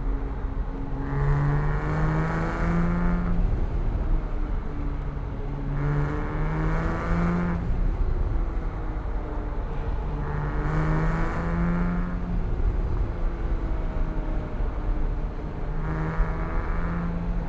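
A Porsche 987.1 Cayman S's 3.4-litre flat-six engine pulls hard four times, its pitch climbing under throttle and then falling as it eases off in between, with a steady rumble of tyres on the road underneath.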